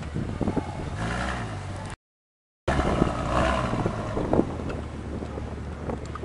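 Ferrari F12 berlinetta's naturally aspirated V12 engine running and revving, its pitch rising about a second in. The sound drops out completely for under a second about two seconds in, then comes back louder before easing off.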